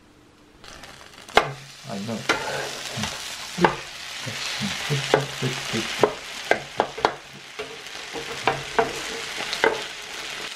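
Savoury cabbage pancakes (okonomiyaki) sizzling on an electric hot plate, starting about a second in, while a metal spatula scrapes and clacks against the plate many times as it presses and turns them.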